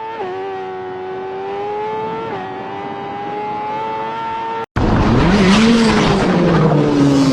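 A motorcycle engine held at high, steady revs with slight pitch shifts; after a sudden break about two-thirds through, a louder engine revs up and back down over a rough rushing noise.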